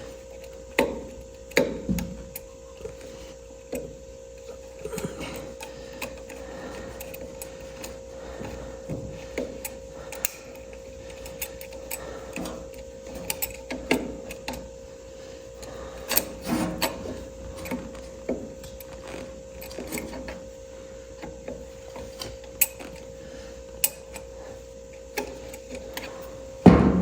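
Irregular clicks, taps and scrapes of hand tools on metal, working at a bent, half-stripped screw in a tractor distributor, over a steady hum.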